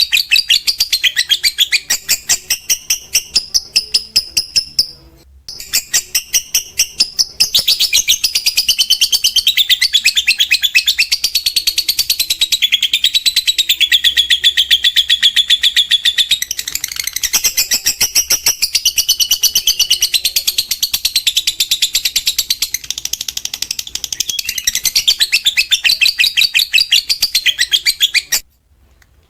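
Lovebird singing its long 'ngekek' chatter: a loud, rapid string of high, harsh repeated notes that runs on almost without break, pausing briefly about five seconds in and stopping abruptly near the end.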